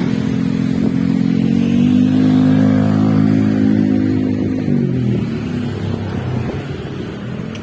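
Diesel locomotive engine running hard with a deep, even drone. About five seconds in its pitch drops and the sound fades as it eases off.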